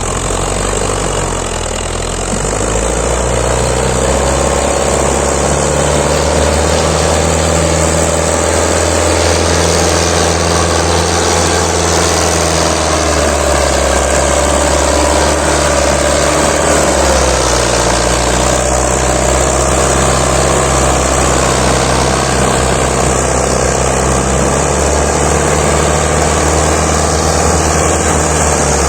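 Tractor engine running loud and steady.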